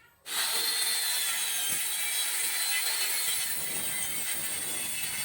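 Mini circular saw with an alloy-tipped blade cutting wood, starting abruptly just after the start and running steadily with a high, hissing tone.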